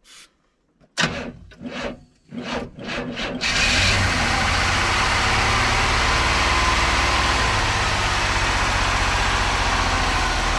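A 1982 Chevrolet pickup's 4.1-litre inline-six, after two or three years without running, cranks on the starter in a few uneven pulses for about two and a half seconds. It then catches and settles into a steady idle.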